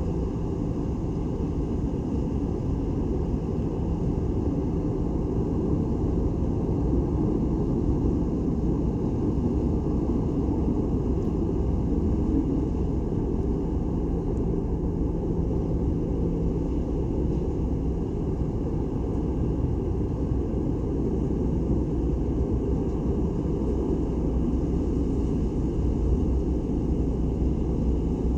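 Ferry's engines running with a steady low rumble and a faint hum.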